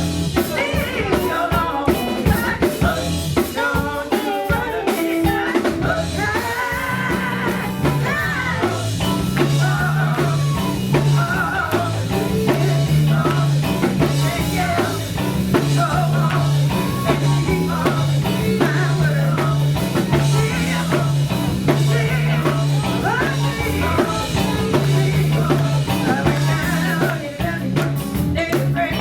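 Live band music: drum kit, electric bass and guitar, with singing over it. The drums are busiest in the first few seconds, and a steady repeating bass line comes in after about seven seconds.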